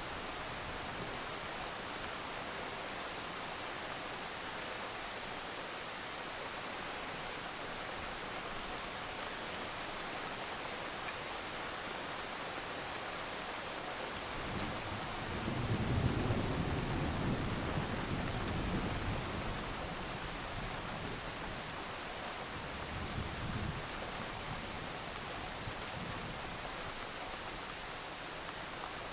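Steady rainfall hissing throughout, with a low roll of distant thunder swelling about halfway through and dying away over several seconds, then a smaller rumble a few seconds later.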